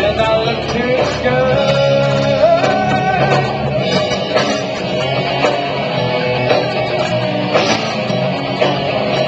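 A live rock band playing an instrumental passage: electric guitar over bass and drums, loud and continuous, picked up by a small camcorder's microphone.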